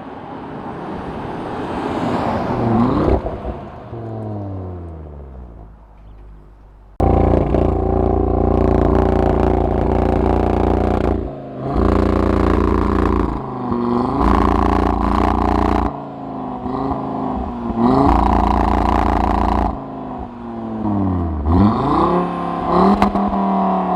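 A 2016 Audi S3's turbocharged four-cylinder engine through a full Milltek exhaust, its pitch climbing under hard acceleration for about three seconds and then falling away as the throttle is lifted. About seven seconds in, a sudden cut leads to a louder, steadier deep drone that drops out briefly several times, with quick dips and rises in pitch near the end.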